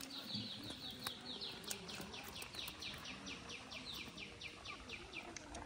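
A bird calling a long, rapid series of short, high, downward-slurred notes, about five a second, for about five seconds before stopping.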